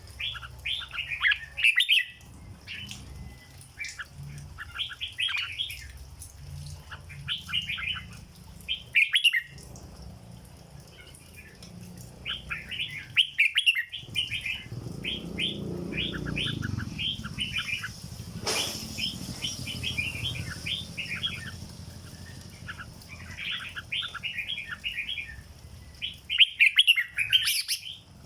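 Red-whiskered bulbul singing: phrase after phrase of quick, chirpy notes, with short pauses between phrases.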